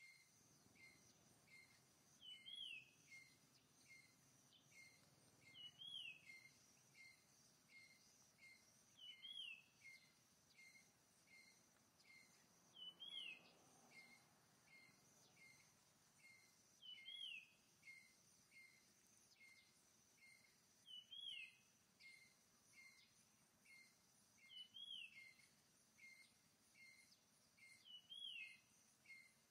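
Faint birdsong: the same falling call repeated about every three and a half seconds, with short chirps in between, over a steady high drone.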